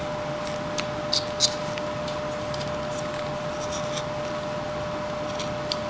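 Carving knife slicing small chips off a wooden figure: a few short, crisp snicks, the loudest two a little over a second in, with more around four seconds in and near the end, over a steady background hiss with a faint constant hum.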